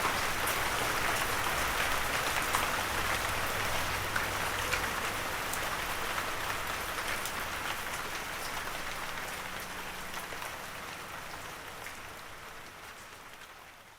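Steady light rain falling on surfaces, with scattered sharp drop ticks, fading out gradually towards the end.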